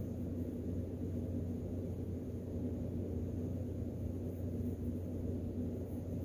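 Steady low hum of room background noise, even throughout, with no distinct events.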